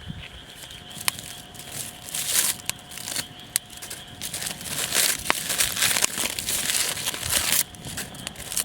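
Aluminium foil crinkling and rustling as it is handled, in irregular bursts with small clicks, busiest from about two seconds in until shortly before the end.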